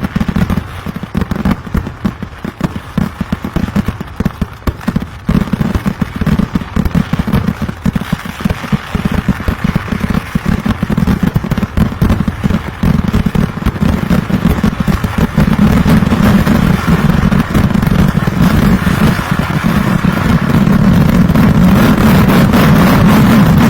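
Kerala temple vedikkettu fireworks: a rapid string of firecracker bangs that comes faster and faster, merging into a near-continuous, louder barrage over the last several seconds.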